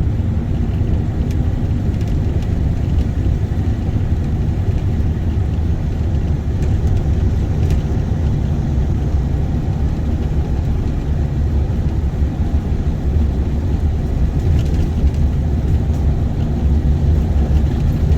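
Car driving at a steady pace: a continuous low rumble of engine and road noise heard from inside the cabin.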